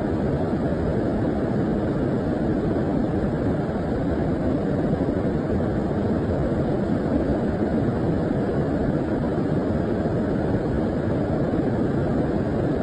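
Swollen stream in flood after rain, its water rushing steadily with a deep, constant roar.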